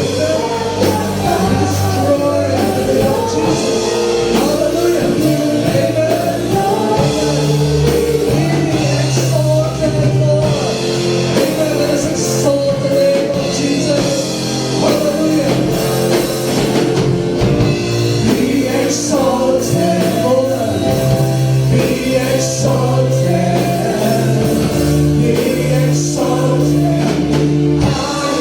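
Worship band music with singing: sustained bass notes under guitar or keyboard and a steady drum beat.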